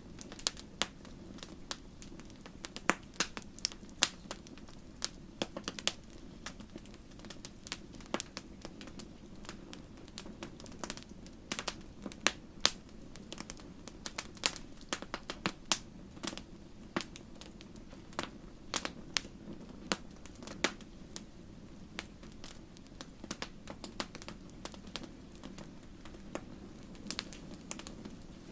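Campfire crackling: wood burning with frequent sharp, irregular pops and snaps over a steady low rush of flame.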